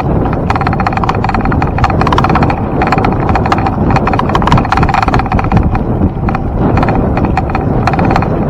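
Bicycle rolling at speed: a fast, continuous run of clicking and rattling, with wind rushing over the microphone.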